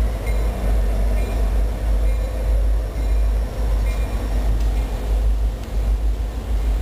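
A train rolling past with a steady, deep rumble.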